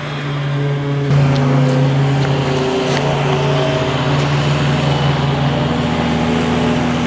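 A motor engine running steadily nearby, its hum growing louder about a second in and holding at that level.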